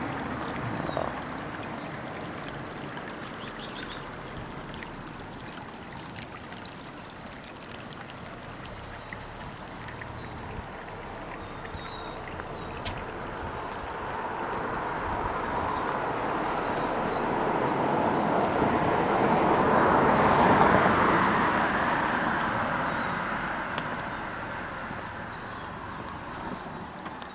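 A vehicle passing by, its road noise swelling slowly to a peak about twenty seconds in and then fading away, with faint short high chirps scattered throughout.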